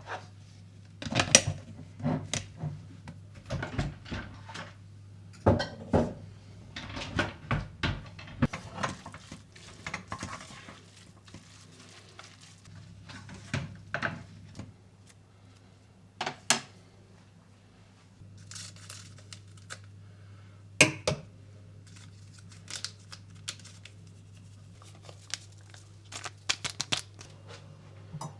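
Kitchen handling sounds: irregular clinks and knocks of dishes and utensils being set down and moved, with brief rustling or crinkling between them, over a faint low hum.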